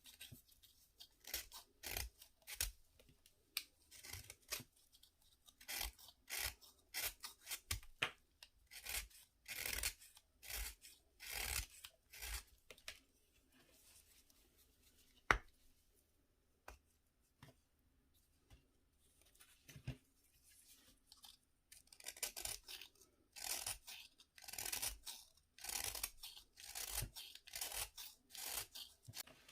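Dry, crumbly bath fizzers being broken up: repeated short crunching and scraping strokes in runs, with a quieter pause in the middle broken by one sharp click.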